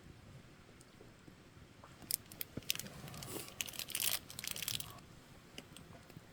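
Campfire crackling: a quick run of sharp snaps and pops of burning wood starting about two seconds in and lasting some three seconds, then a few faint single pops.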